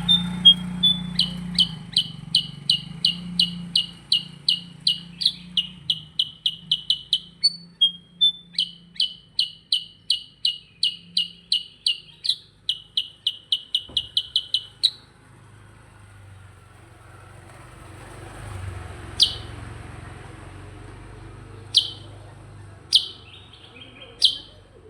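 Kutilang sutra (a bulbul) singing its rolling 'ngerol' song: a fast run of loud, repeated high chirping notes, about three a second, with a short break around 8 seconds in. The run stops about 15 seconds in, followed by a few single sharp, falling call notes near the end.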